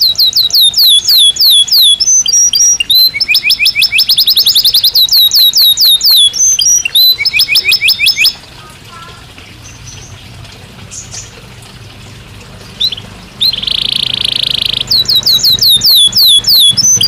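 Belgian canary singing: fast trills of repeated, quickly falling whistled notes, several runs at different speeds. The song breaks off for about five seconds past the middle, then resumes with a steady buzzing note followed by more rapid trills.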